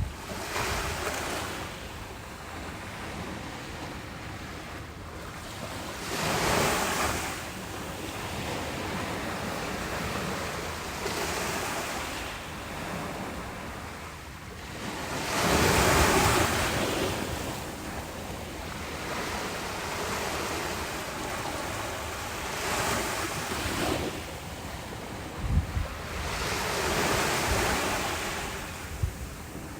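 Ocean waves breaking and washing up a beach, the surf swelling and fading in surges several seconds apart, the loudest about halfway through. Wind rumbles on the microphone, with a few brief low thumps near the end.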